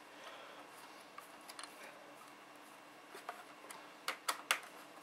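A few sharp plastic clicks and taps as laptop cover parts are handled and pressed into place: one click a little past three seconds in, then three quick ones about four seconds in.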